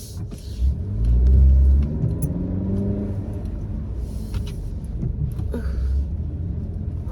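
Car engine accelerating, its pitch rising over a couple of seconds with a low rumble, then settling into a steady run. Brief hissing bursts follow.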